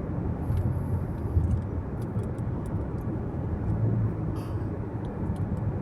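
Car interior noise while driving: a steady low rumble of tyres and engine, with a few faint ticks now and then.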